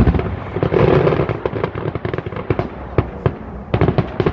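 Fireworks going off: a heavy bang at the start, then a quick run of sharp crackling reports, with a dense cluster of cracks near the end. It is taken for the display's big finale.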